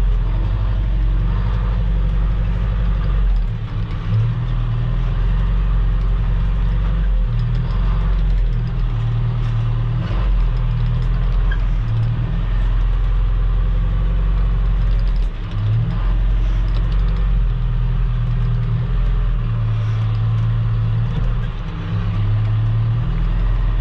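Engine of a compact earthmoving machine running steadily at working speed during a grading pass, with a constant low drone and a few brief dips in loudness.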